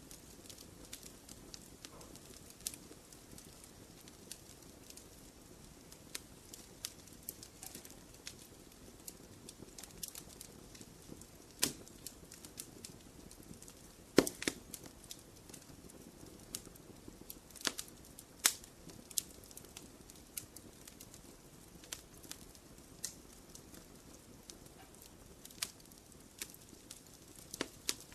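Wood fire crackling in a fireplace: irregular sharp pops and snaps over a low steady hiss, the loudest pop about fourteen seconds in.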